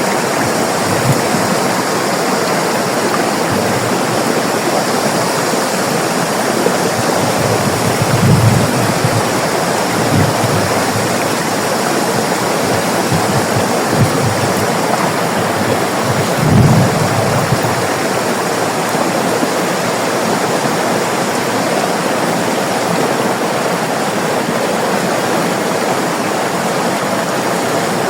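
River water flowing, a steady rushing with a few short low swells, the strongest about 8 and 16 seconds in.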